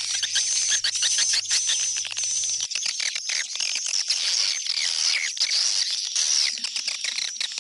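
Dense twittering of many swiftlets: a continuous mass of rapid high chirps and clicks, the kind of swiftlet call recording played to lure the birds into a swiftlet house.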